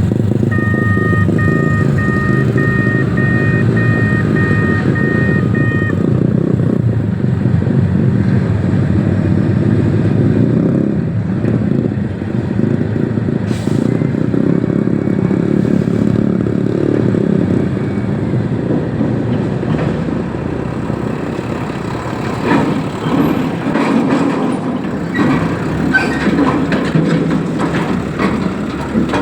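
Heavy diesel engine of a reach stacker running steadily under load. For the first six seconds a reversing alarm beeps about one and a half times a second, and near the end there are scattered metal knocks and clanks.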